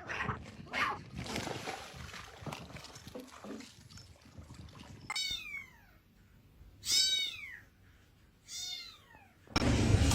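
Cat meowing three times, each call short and falling in pitch, spaced about a second and a half apart. The meows follow a few seconds of faint rustling and clicks.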